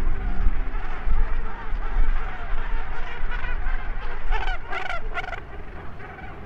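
Many Cape gannets calling at once in a breeding colony: a dense chorus of harsh, honking calls, with a few louder calls close by about four and a half to five seconds in, over a low steady rumble.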